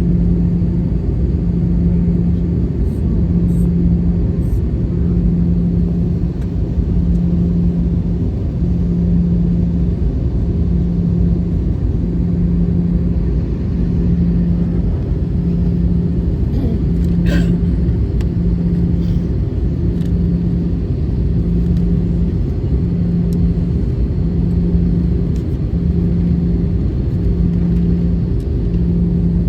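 Airbus A320-214 cabin noise: the jet engines' steady low drone, with a hum that swells and fades about every second and a bit, like a slow beat. A brief faint higher sound comes about halfway through.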